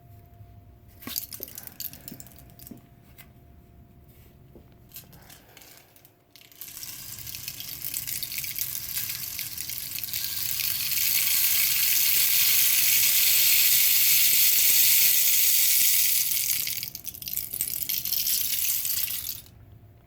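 Rain stick being tipped, its pebbles pouring through the tube in a rushing, rain-like hiss that builds to a long loud stretch, eases off, then runs again more briefly and stops. It is preceded by a few light knocks as it is handled.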